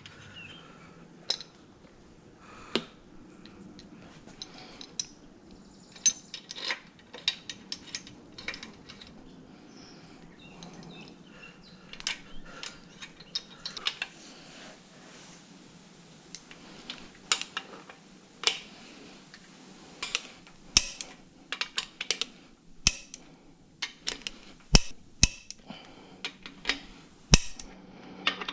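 Metal engine parts and hand tools clicking and clinking during bench assembly of a Toyota 22R engine's crankshaft and bearing caps: irregular sharp knocks and taps, coming more often in the second half, over a faint steady hum.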